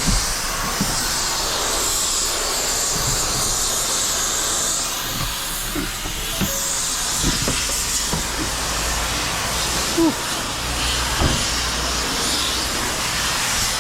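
Steady road and wind noise of a moving vehicle, heard as an even hiss, with a few light knocks and rattles scattered through it.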